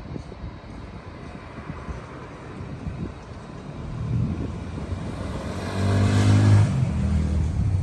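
A motor vehicle passing close by: its engine noise swells, peaks about six seconds in with a pitched engine hum, and then fades slightly, over steady traffic noise.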